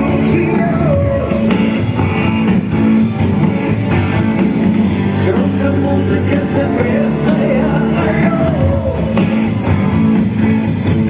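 Rock band playing live: a loud rock-and-roll song with guitar and a singing voice.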